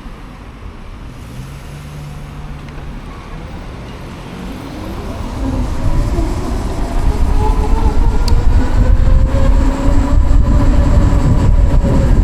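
Savic C3 electric motorcycle accelerating: the whine of its permanent-magnet motor and belt drive rises in pitch from about four seconds in, then levels off. A rushing wind and road noise grows much louder along with it.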